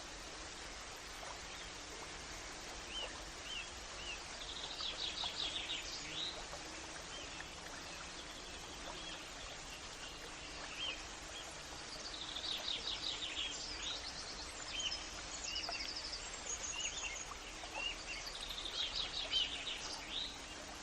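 Birds singing over a steady background hiss: a rapid high trill comes three times, with short chirps scattered in between.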